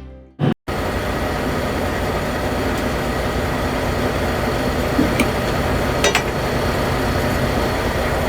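Semi-truck diesel engine idling steadily, after a short loud bump right at the start, with a couple of light metallic clicks about five and six seconds in.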